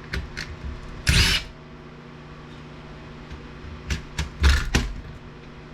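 Short knocks and clattering of metal and plastic parts being handled while a DVD player is taken apart, with one loud burst about a second in and a few more knocks near the end, over a low steady hum.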